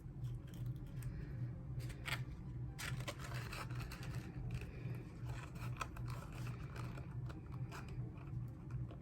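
Paper and cardboard being handled and worked by hand: irregular scraping, rustling and short clicks over a steady low hum.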